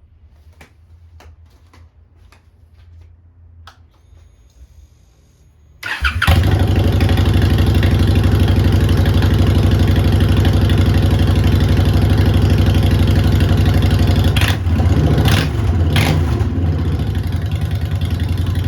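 Honda Shadow Phantom V-twin motorcycle engine, fitted with Vance & Hines Short Shots exhaust pipes. Faint ticks and a low hum come first, then the engine starts suddenly about six seconds in and runs loud and steady at idle. There is a brief change in the engine note about two-thirds of the way through.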